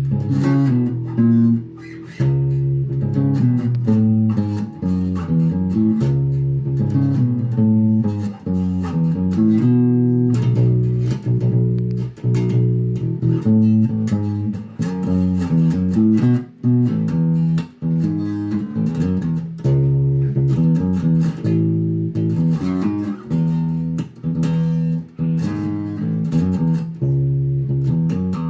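Epiphone Grabber electric bass played through an amp, a bass line of sustained notes with the tone knob rolled back for a dark, vintage sound.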